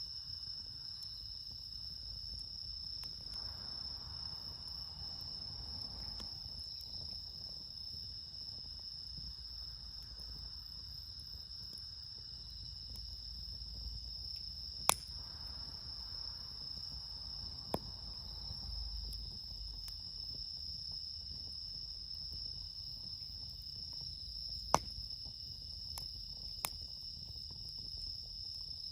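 A steady, high chorus of crickets, bell crickets among them, singing without a break. A few sharp pops from the crackling campfire come in the second half.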